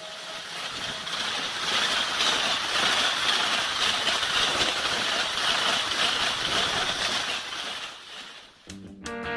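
Express train hauled by a WAP4 electric locomotive passing at high speed: a steady rushing noise of wheels on rail that swells over the first two seconds and dies away about eight seconds in. Strummed guitar music begins near the end.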